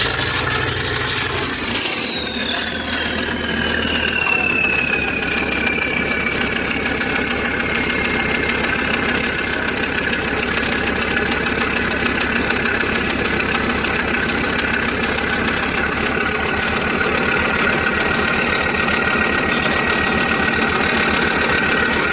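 An engine running steadily, with a high whine that falls in pitch over the first several seconds and then holds at a steady pitch.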